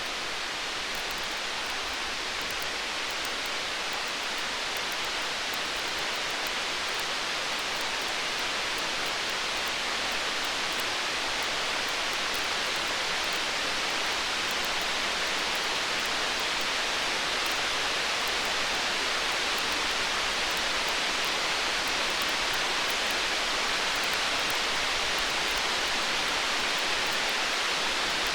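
Storm-night ambience: a steady, even hiss like heavy rain, with faint fine crackles all through and no thunder rumble, growing slightly louder.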